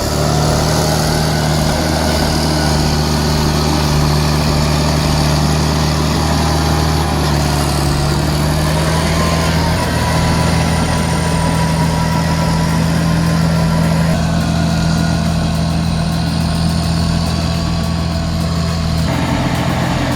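Bulldozer's diesel engine running steadily with a low, even drone. The sound changes abruptly about a second before the end.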